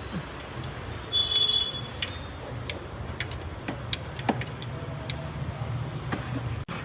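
Car workshop background: a steady low hum with scattered light metallic clinks and ticks, one ringing briefly just over a second in.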